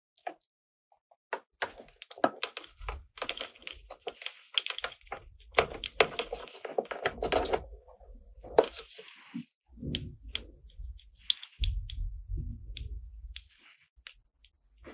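Plastic toy kitchen pieces being handled, with irregular sharp clicks, taps and knocks, brief rustling and a few dull thumps as parts are set down.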